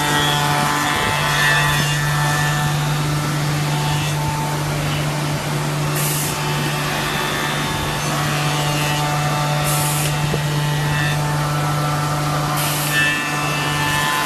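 Automatic wood copy shaper running: a steady motor hum with a high spindle whine, and brief rushes of cutting noise as the cutters mill wood, about six, ten and thirteen seconds in.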